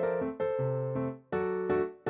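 Background piano music: gentle chords struck and left to ring and fade, new notes about half a second and a second and a third in.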